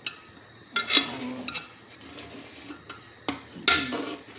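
Metal kitchenware clanking against a cooking pot: a few sharp strikes that ring briefly, the two loudest about a second in and near the end, with lighter taps between.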